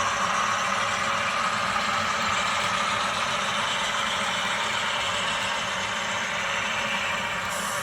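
Steady diesel engine sound from an HO scale model locomotive, running evenly through its small onboard speaker, with a little added hiss near the end.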